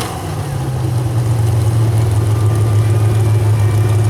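A super stock 4x4 pulling truck's engine running steadily at a low, even idle, with a deep hum.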